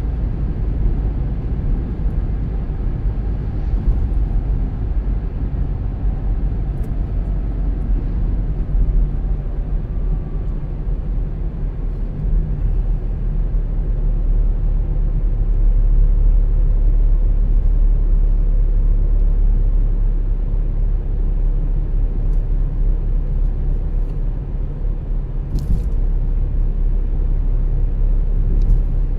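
Car driving at road speed: a steady low rumble of tyres and engine, swelling a little midway, with a brief faint click late on.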